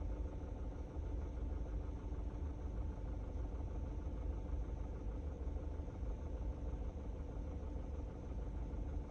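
Skoda Octavia A7 1.8 TSI engine idling steadily, with a low even hum and faint steady tones above it. The car is recorded because the owner hears a howl and knock from it.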